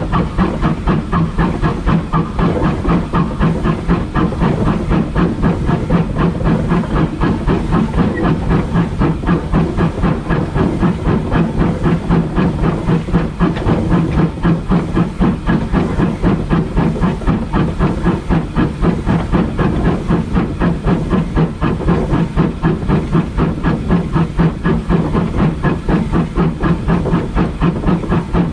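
Steam locomotive working along the line, its exhaust beating steadily at about four beats a second over a constant hiss of steam.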